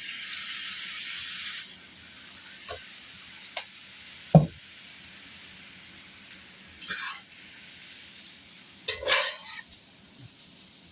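Fried rice frying in a hot pan: soy sauce splashed onto the hot outer edge sizzles loudly for about the first second and a half, then settles into a steady sizzle. A sharp knock about four seconds in and a few short scrapes later on come from the utensil working the rice.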